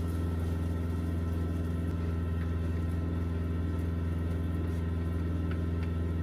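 Semi-truck's diesel engine idling: a steady, unchanging low drone.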